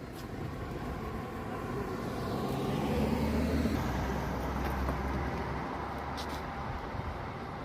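A motor vehicle passing: its engine and tyre noise swells to a peak about three seconds in, then fades away.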